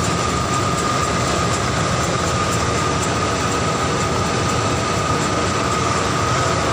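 Rice combine harvester running steadily in a paddy field: a continuous loud engine and machinery drone with a steady high whine.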